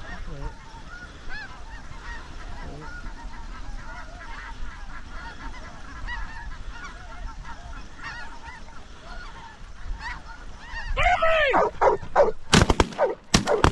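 A large flock of snow geese and Ross's geese calling, a dense overlapping chatter of honks. Near the end, louder close honks come in, then a rapid volley of shotgun shots.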